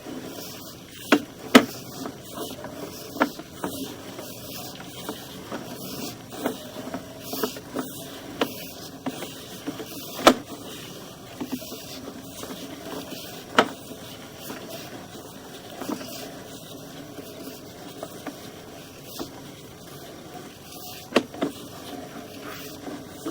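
Sewer inspection camera's push cable being fed along the pipe: irregular clicks and knocks over a steady low hum.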